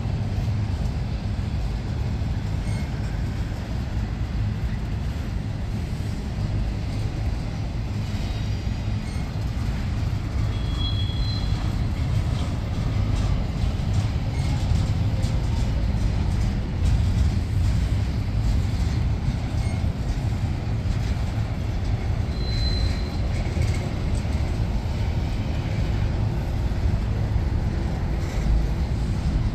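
Double-stack container well cars of a freight train rolling past on the rails: a steady low rumble of steel wheels on track. Two brief high wheel squeals come through, about a third of the way in and again about three-quarters through.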